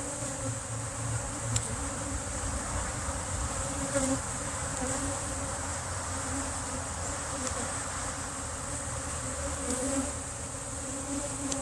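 Honey bees buzzing steadily around an open hive, a wavering hum from many bees at once.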